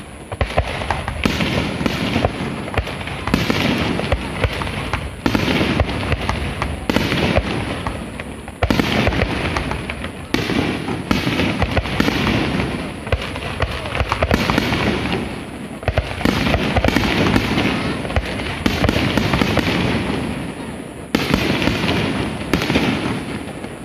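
Aerial firework shells bursting overhead in quick succession: a dense run of sharp bangs and crackles, with fresh salvos bringing jumps in loudness several times, fading near the end.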